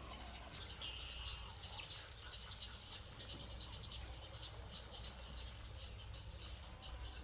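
Outdoor wetland ambience dominated by insects: a steady high-pitched drone with short chirps repeating about three times a second. A low rumble runs underneath.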